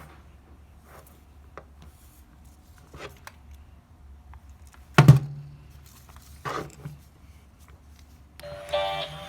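A loud thunk about five seconds in, then, near the end, a Gemmy Big Flirts animated dog toy starts playing its tinny electronic song.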